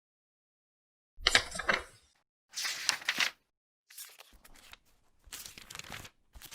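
Five short bursts of rustling, crinkling noise, roughly one a second, after about a second of silence.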